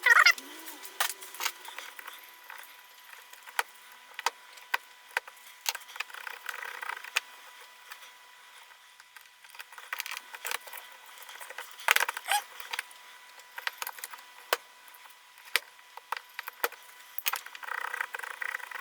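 Scattered sharp clicks and taps of small plastic and metal parts being handled during the drill's wiring repair, with brief scraping about six seconds in and again near the end.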